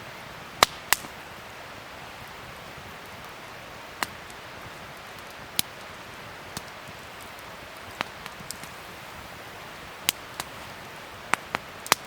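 Wood fire crackling: a steady soft hiss broken by irregular sharp pops, the loudest two within the first second and a cluster near the end.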